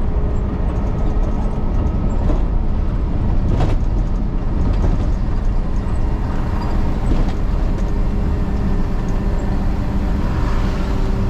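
Garbage truck running with a steady low rumble and a faint steady hum, with one short knock about three and a half seconds in.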